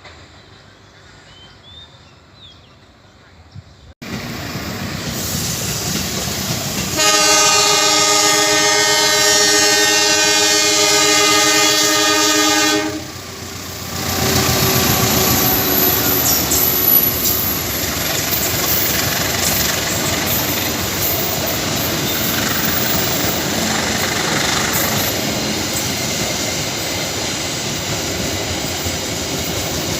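Faint bird chirps, then about four seconds in a train's noise comes in suddenly and the locomotive's horn sounds one long, loud multi-tone blast for about six seconds. After the horn the train passes: steady rumble and clatter of wheels over the rails, with a few brief high-pitched squeals.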